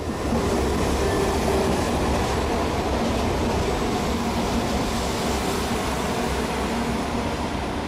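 A diesel multiple unit train passing along a brick arched viaduct overhead: a steady rumble of engines and wheels that eases slightly near the end.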